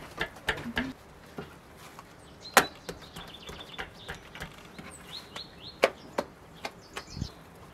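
Small birds chirping in short series of high notes, over scattered sharp taps and clicks. The loudest clicks come about two and a half and six seconds in.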